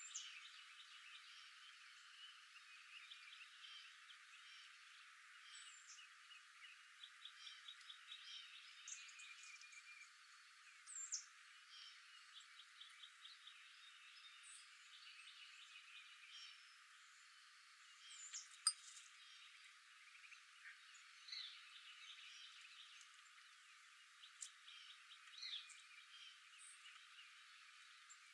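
Faint outdoor wildlife chorus: many short high chirps and rapid trills from small animals, birds among them, over a soft background hiss, with one sharp click about two-thirds of the way through.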